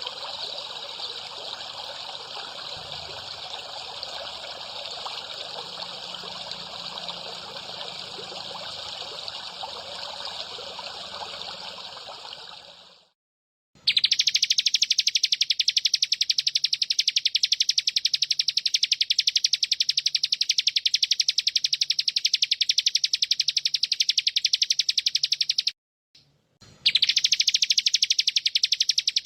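Water trickling for about the first thirteen seconds, then, after a brief silence, a loud, very fast buzzing trill from the bren, ciblek and cililin bird-song master track, broken once by a short pause near the end.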